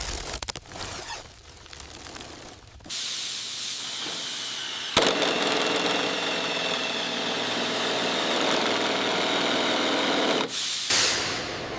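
Crackling at first, then from about three seconds in a steady mechanical hiss with a faint hum, like a spray or compressed-air tool. There is a sharp click about five seconds in, and the hiss cuts off shortly before the end with a brief burst after.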